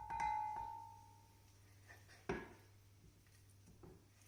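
Crockery clinks against a casserole dish with a clear ringing note that fades over about a second, then a duller knock about two seconds later and a few faint taps, as chicken pieces are tipped into the dish.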